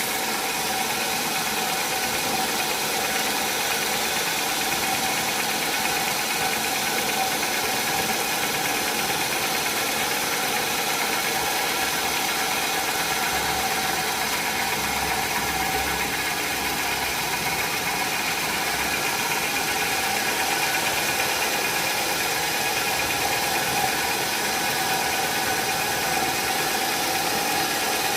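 Sawmill machinery running steadily: a continuous mechanical noise with a few held tones, unchanging throughout.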